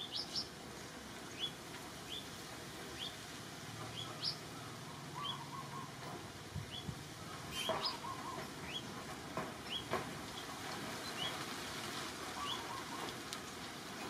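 Birds chirping: short, high, rising chirps repeated about every second, with a quieter lower trill now and then and a few soft clicks near the middle.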